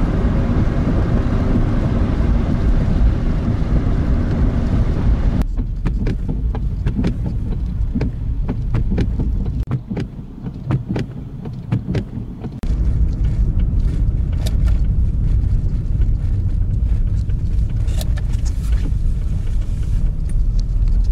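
Car driving, heard from inside the cabin: a steady low road and engine rumble with scattered sharp clicks. The rumble drops off for a couple of seconds about ten seconds in, then returns.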